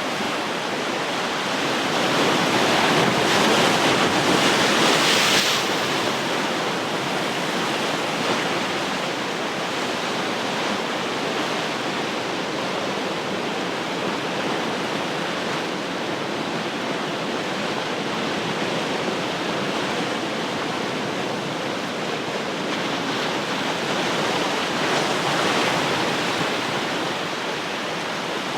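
Ocean surf: a continuous wash of breaking waves, swelling louder as a bigger wave breaks and washes in a few seconds in, and again more gently near the end.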